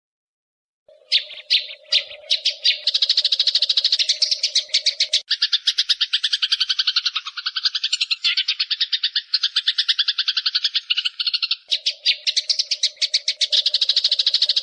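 Eurasian tree sparrows giving fast, harsh chattering chirps in a dense unbroken run, the agitated calls of sparrows fighting; it starts about a second in. A steady low hum lies beneath the first few seconds and the last few.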